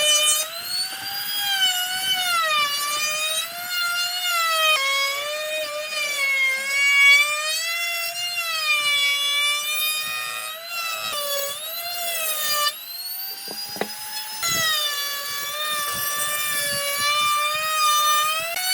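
A high-pitched electric power-tool motor whine that sags and recovers in pitch every second or two as the tool is pushed through wood. It breaks off briefly a few times, and near the end one drop is followed by a climb in pitch as the motor spins back up.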